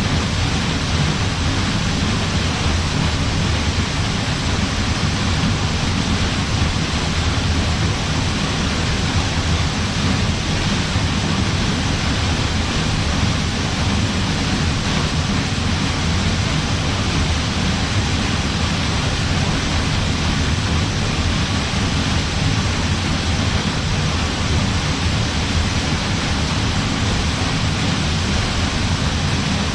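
Waterfall splashing down: a steady, even rush of falling water with a deep low rumble under it.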